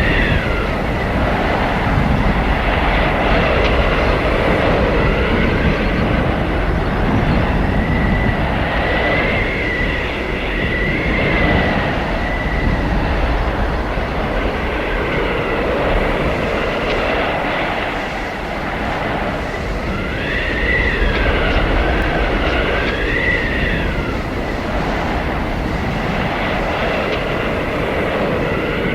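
Blizzard wind blowing hard and steadily, with high whistling howls that rise and fall in waves every several seconds.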